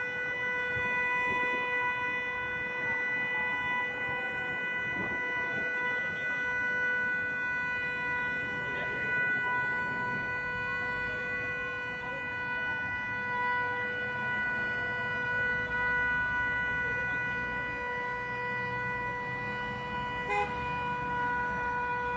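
Emergency-vehicle sirens: one steady, unbroken horn-like tone held throughout, with fainter wailing sirens rising and falling behind it. A brief click sounds near the end.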